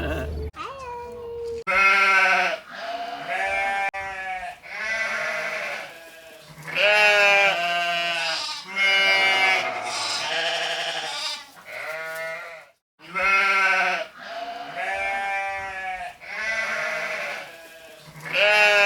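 Sheep bleating over and over, about a dozen long bleats in a row, some overlapping.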